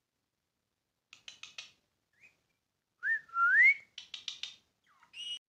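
A loud whistle that wavers and then rises in pitch, with quick chirpy calls before and after it and a short high call near the end.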